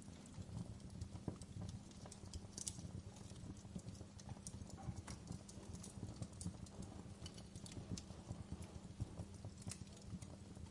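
Wood fire burning in a fireplace: a dense low rumble of burning with a steady scatter of sharp crackles and pops.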